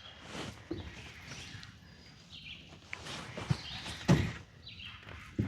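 Faint outdoor sounds: a few scattered knocks, the loudest about four seconds in and again near the end, with short high bird chirps between them.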